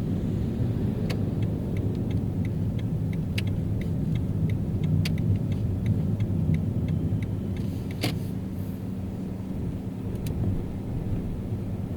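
Car driving in city traffic: steady low road and engine rumble. Over it runs a light ticking about twice a second for the first half or so, and a single sharper click comes about two-thirds of the way in.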